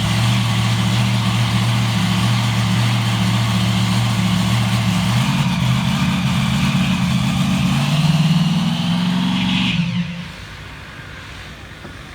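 Samson monster truck's engine running at a steady low idle, stepping up in speed about halfway through and rising a little further, then shut off suddenly near the end, leaving only quiet background noise.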